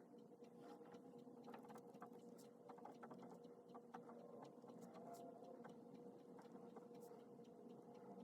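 Pen writing on paper: faint, irregular scratching and light taps of the nib, over a steady low hum of room tone.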